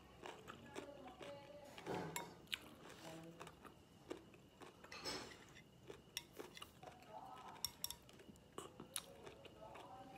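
Close-up chewing of pig intestine, with many small clicks from the mouth. Near the end, chopsticks click lightly on the plate as the next piece is picked up.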